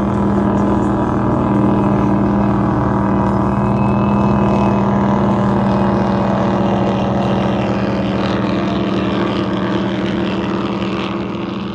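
Twin big-block engines of an Eliminator powerboat running hard on a high-speed pass, a loud steady drone that eases off a little near the end.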